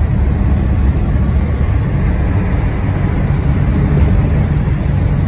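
Steady low rumble of a 1955 Chevy Bel Air's V8 engine and road noise, heard from inside the car as it drives at highway speed.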